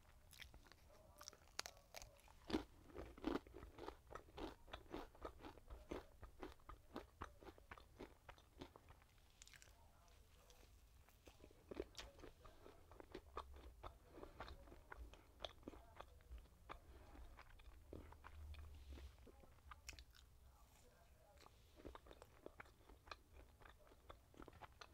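A person chewing and biting turkey bacon and French toast: a faint, irregular run of small crunches and mouth clicks, several a second.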